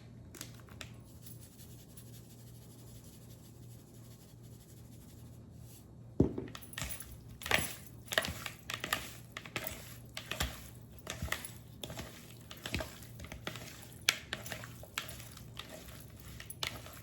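Irregular kitchen clicks and clatter, several a second, from seasoning raw chicken pieces in a bowl, starting about six seconds in after a quiet stretch. A faint steady low hum lies underneath.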